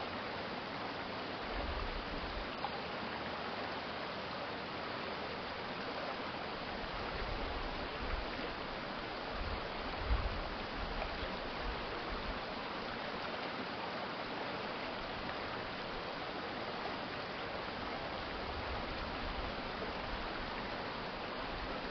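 Water of a shallow city stream flowing steadily, a constant rushing hiss, with a few brief low rumbles about two, eight and ten seconds in.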